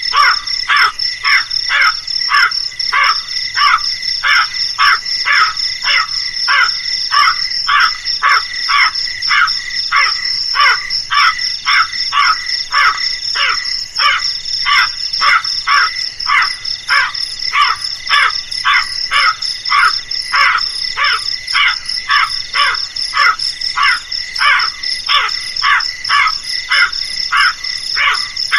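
Crow cawing in a fast, even run of short calls, about three a second, over a steady high-pitched buzz.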